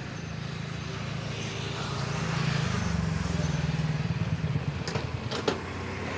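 Motor vehicle engine running, its low hum growing louder through the middle and then easing off, with a few sharp clicks near the end.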